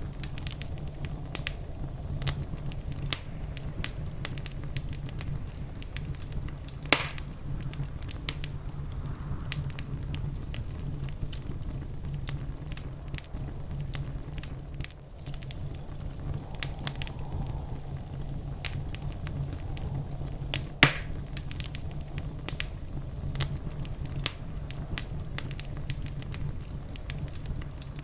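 Wood fire crackling in a fireplace: a steady low rumble of the flames under frequent small crackles. Two louder pops stand out, one about a quarter of the way through and one about three quarters through.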